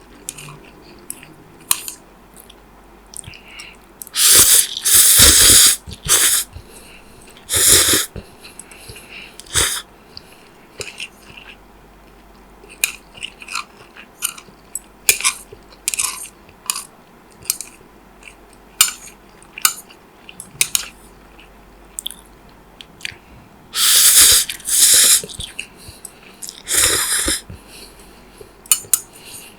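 Close-miked eating: steady chewing and wet mouth clicks, with a few louder, longer bursts of eating noise, the biggest about four seconds in and again near the end.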